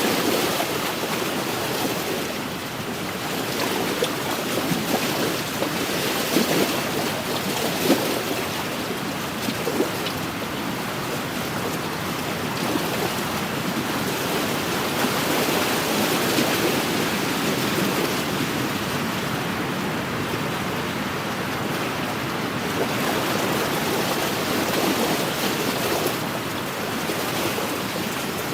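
Wind-driven lake waves washing and splashing against the shore, a continuous wash that swells and eases every few seconds, with a few sharper splashes, and wind blowing over it.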